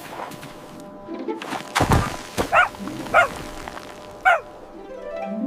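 Cartoon dog barking three short, high barks, with a heavy thump just before them, over background music.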